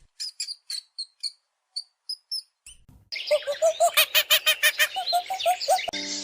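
Bird calls: a series of short, high, separate chirps, then from about three seconds in a louder, faster run of repeated chirping calls, about five a second.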